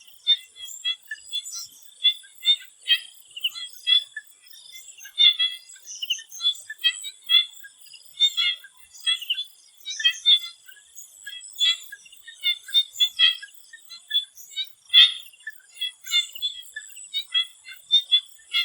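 A chorus of swamp frogs calling, many short high-pitched notes overlapping at an irregular pace, over a steady high-pitched insect-like trill.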